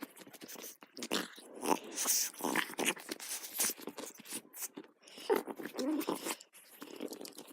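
A dog playing rough with a toy: irregular crunching, biting and scuffling noises, with no steady rhythm.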